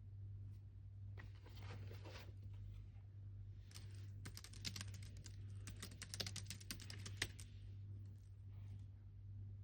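Typing on a computer keyboard: a short spell of keystrokes about a second in, then a quick run of keystrokes for about three and a half seconds, ending on one sharper keystroke, over a low steady hum.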